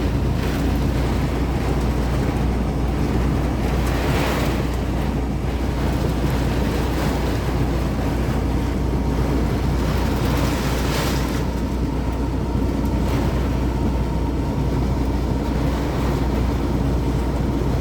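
Heavy rain pounding on a semi truck's cab and windshield, heard from inside the cab, over a steady low hum. The downpour surges louder for a moment about four seconds in and again about eleven seconds in.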